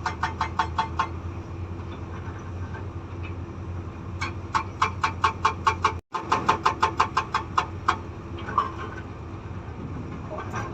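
Hydraulic rock breaker on an excavator hammering stone in rapid, even strikes, about six a second, over the steady running of the excavator's diesel engine. The hammering comes in bursts: for the first second, again from about four seconds in for nearly four seconds, and starting once more at the very end.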